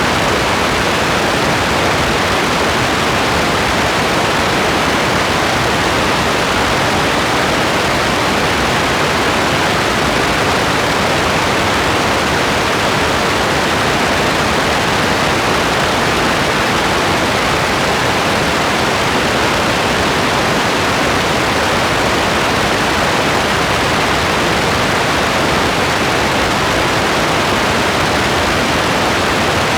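Steady rain, an even hiss that does not change, with no separate drops or thunder standing out.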